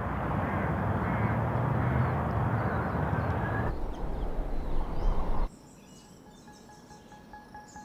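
Steady outdoor background noise with a low rumble that cuts off suddenly about five and a half seconds in, followed by quiet and then a chiming music figure starting near the end.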